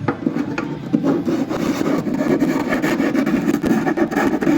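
Hand file rasping on the wooden edge of a pickup cavity cut into an archtop guitar's top, in a quick run of back-and-forth strokes, truing the edge to the scored line.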